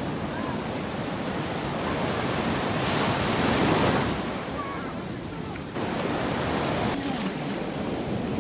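Sea waves breaking and washing up a beach, swelling louder about three to four seconds in and then easing back.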